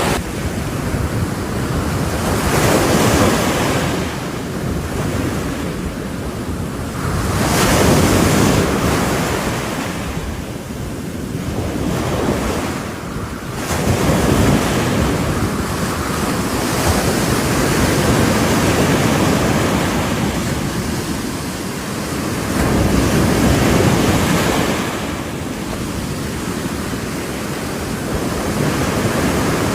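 Ocean waves breaking on a shore, the surf swelling and ebbing every four to six seconds, with wind buffeting the microphone.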